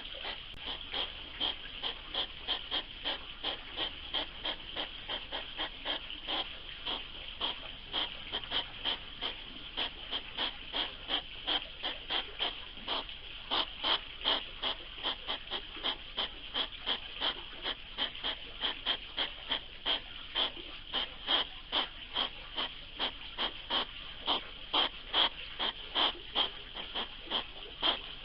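Two hedgehogs huffing: a steady run of short, hissy puffs, about three a second.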